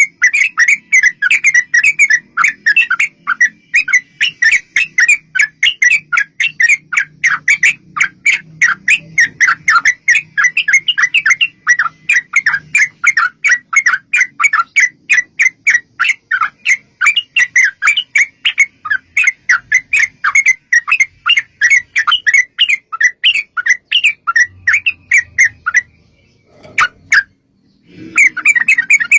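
Yellow-vented bulbul (trucukan) calling in a long, rapid chattering run of short notes, several a second. About 26 seconds in it breaks off, gives a single note, then starts the run again near the end.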